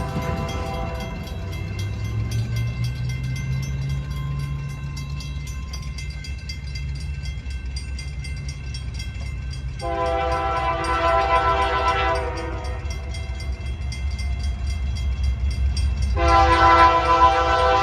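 Union Pacific GE AC4400CW diesel locomotive sounding its air horn, a multi-note chord: the tail of one blast right at the start, a long blast of about two and a half seconds roughly ten seconds in, and another beginning about sixteen seconds in. Under the horn is the steady low rumble of the passing freight train.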